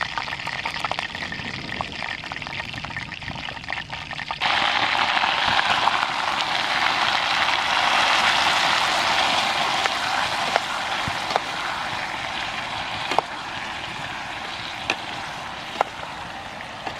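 Hot oil sizzling in a steel pot on a gas camping stove. About four seconds in, cauliflower florets go into the oil and the sizzling jumps much louder, then slowly dies down. A few sharp clicks of a metal spoon against the pot come in the second half.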